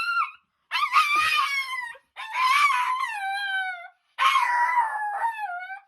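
A dog howling excitedly: three long, high howls in a row, each a second and a half or so and sliding down in pitch at the end, with short pauses between them.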